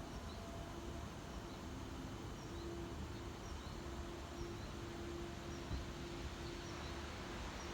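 Small birds chirping, short high chirps repeated every half second to a second, over a steady low outdoor rumble and a faint hum. A single low thump about two thirds of the way through.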